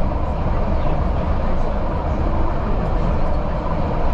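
Passenger train running along the track: a steady low rumble of wheels and carriages with faint clicks.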